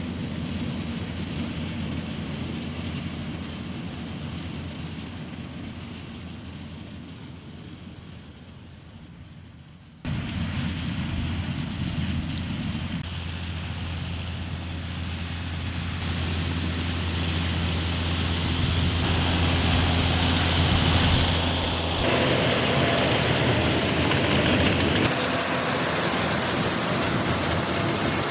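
John Deere 6530 tractor's diesel engine running steadily while driving a round baler through wheat straw. It fades away over the first ten seconds, then comes back abruptly louder and closer, with a thin high whine for several seconds.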